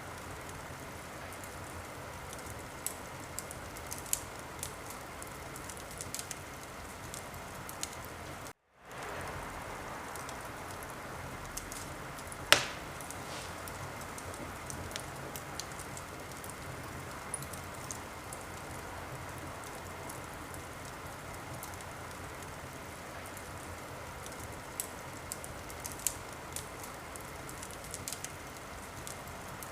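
Wood fire crackling in a fireplace: a steady hiss with scattered small crackles and one loud pop about twelve seconds in. The sound cuts out for a moment about eight and a half seconds in and fades back up.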